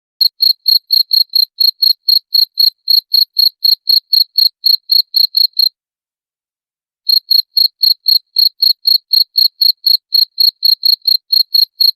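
Cricket chirping: a steady run of short high-pitched chirps, about four a second. The chirping stops for over a second just past the middle, then resumes at the same pace.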